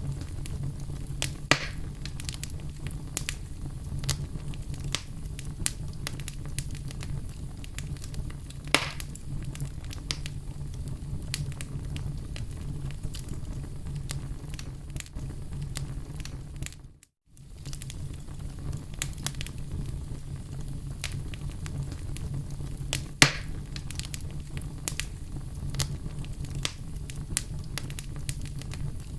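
Wood fire burning in a fireplace: a steady low rumble of flame under constant crackling, with a few louder pops. About two-thirds of the way in, the sound drops out for a moment and then resumes.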